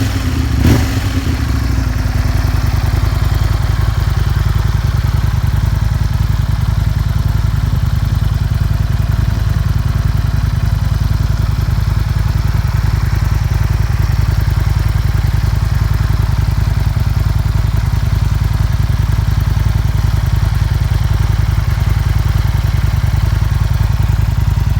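Aprilia RSV1000 R Factory's 60-degree Rotax V-twin running through an Arrow exhaust: one quick throttle blip just after the start, then a steady idle.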